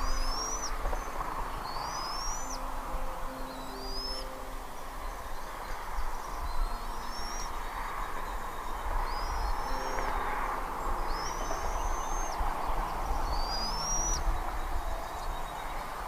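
Thin, high whistled bird calls, each a short note rising in pitch, repeated every second or two, over low steady hooting notes and a constant outdoor background.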